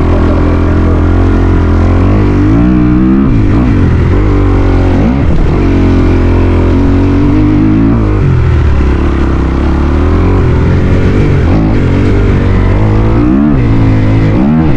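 Dirt bike engine being ridden hard, its pitch rising and falling again and again as the throttle is opened and closed and it shifts through gears.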